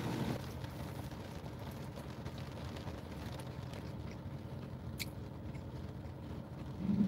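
Car engine idling, heard from inside the cabin as a steady low hum, with a single faint click about five seconds in.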